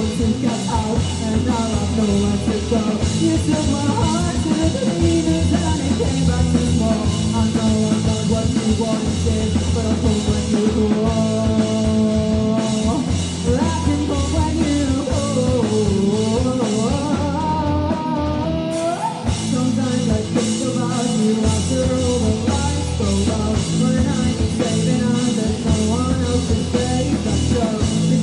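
Rock band playing live with drum kit, guitar and singing. A melody line slides up and down in pitch, and the drums drop out briefly about two-thirds of the way through.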